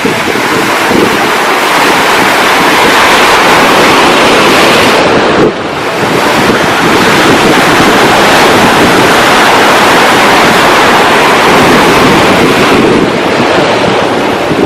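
Ocean surf washing in with strong wind buffeting the microphone, a loud continuous rushing noise. It drops briefly about five and a half seconds in, then builds again.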